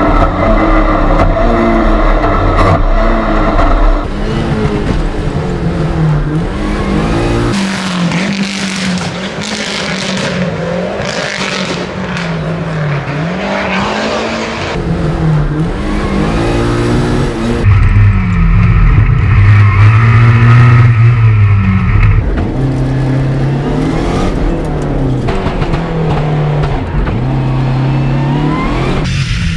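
Lancia Delta Integrale Evo rally car's turbocharged four-cylinder engine revving hard, the pitch climbing and dropping again and again through the gears, heard on board. A stretch of loud tyre and surface noise comes in about eight to fourteen seconds in.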